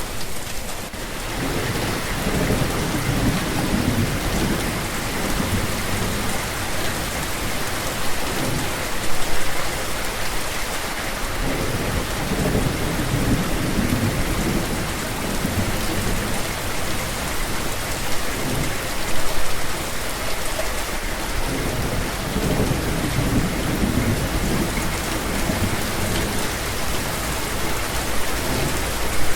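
Steady heavy rain hissing, with low rolling rumbles of thunder that swell and fade several times.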